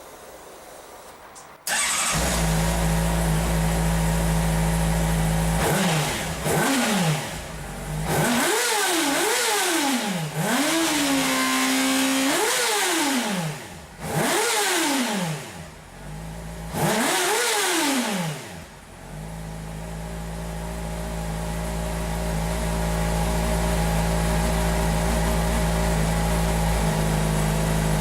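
Honda motorcycle engine on its stock OEM exhaust, warmed up, idling, then revved several times with the pitch rising and falling on each blip, one rev held briefly, before settling back to a steady idle.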